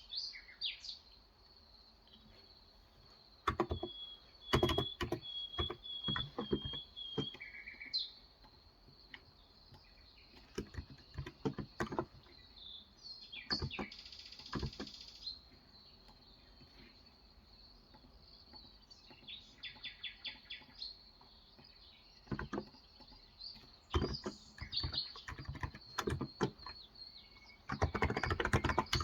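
Bursts of typing on a Cox Endeavour electrostatic capacitive tenkeyless keyboard with 35 g switches, soft keystroke clicks coming in runs with pauses between. Birds chirp and trill in the background.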